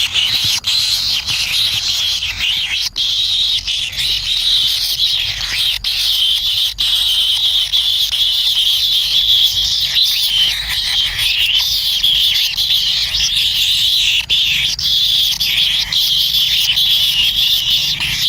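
Kingfisher nestlings begging for food: a dense, continuous high-pitched buzzing chorus that holds steady, broken by a few sharp clicks.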